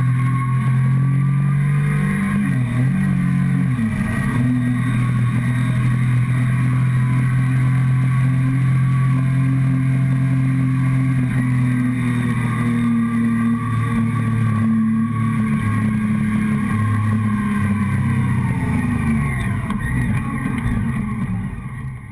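Motorcycle engine running at steady revs, heard from a camera mounted on its fuel tank, with a brief dip in the note about three seconds in. Near the end the revs fall and the sound fades away.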